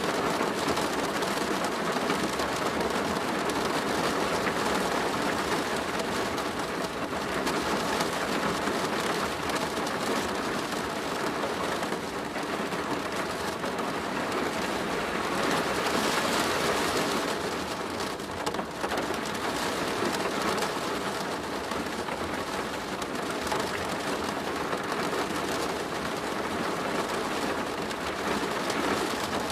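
Steady rain pattering on a plastic roof: a dense, even patter with no breaks.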